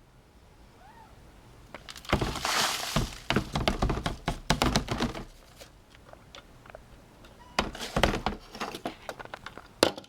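Clattering knocks and thumps of hard objects being handled, in two bursts: one from about two seconds in, lasting around three seconds, and a second near the end, with a final sharp knock.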